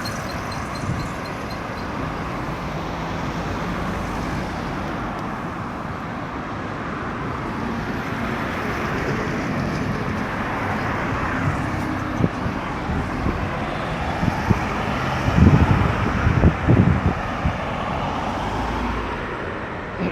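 Road traffic moving steadily around a busy roundabout, a continuous hiss of tyres and engines. A few louder low rumbles come in the last few seconds.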